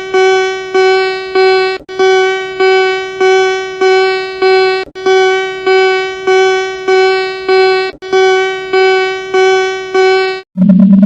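Emergency-alert style alarm tone: a buzzy single-pitched beep repeated about every 0.6 s in groups of four or five, with a brief break between groups. Near the end it stops, and a louder, lower steady tone comes in.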